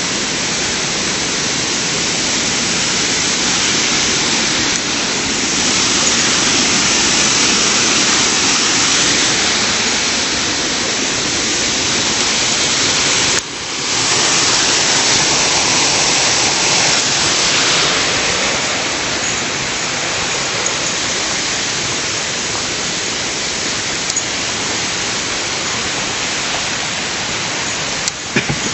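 Loud, steady rush of river water, with a brief dip in level about halfway through.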